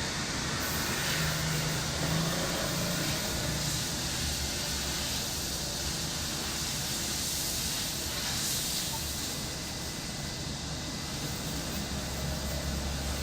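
Summer cicadas droning in a steady wash over the low hum of a vehicle engine, the hum growing stronger near the end.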